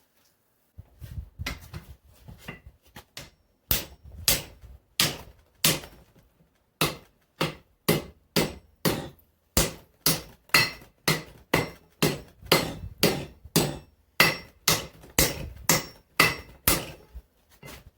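Blacksmith's hammer striking a hot mild steel bar, bending it to start forming an axe eye: a few lighter taps, then a long run of steady, regular blows, about two a second, that stops near the end.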